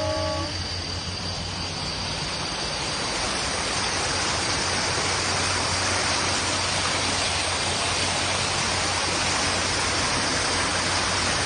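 Steady rushing of running water, growing fuller and brighter after about three seconds, with a faint steady high-pitched whine above it.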